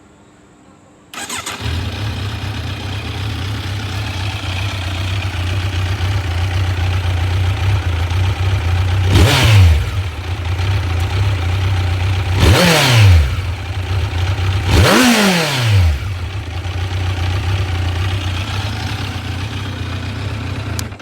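Kawasaki Z900 inline-four motorcycle engine and exhaust starting about a second in and settling into a steady idle, then revved three times in quick blips, each rising and falling in pitch, before idling again and cutting off suddenly at the end.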